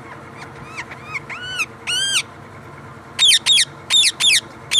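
Pet parrot calling: a few short rising-and-falling whistled chirps that grow louder over the first two seconds, then from about three seconds in a quick run of loud, sharp, downward-sweeping screeches. A steady low hum runs underneath.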